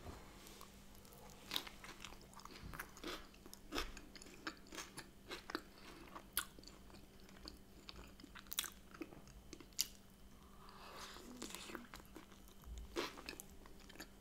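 A person biting into and chewing a soft smoked-salmon and cream-cheese bagel, with faint, irregular wet mouth clicks and smacks. A faint steady hum sits underneath.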